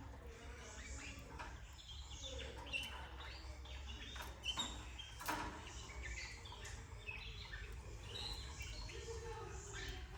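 Canaries chirping in short, scattered notes, with a few sharp clicks about halfway through, over a steady low hum.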